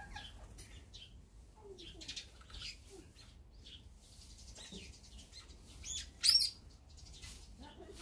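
Small songbirds, among them tree sparrows, giving scattered short chirps at a feeder, with one much louder, sharper call about six seconds in.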